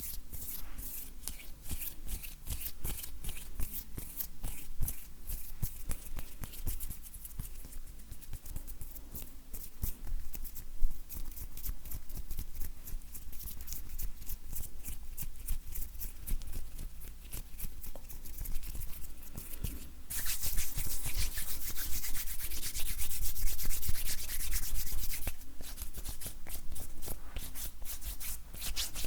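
Dry hands rubbing and brushing against each other close to the microphone: a steady patter of fine crackly skin rasps. About two-thirds of the way through comes a denser, louder rubbing hiss for several seconds, then the lighter crackling returns.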